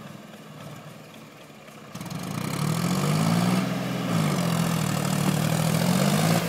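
Tractor engine, quiet at first, comes up loud about two seconds in and revs, its pitch rising, falling back and rising again near the end.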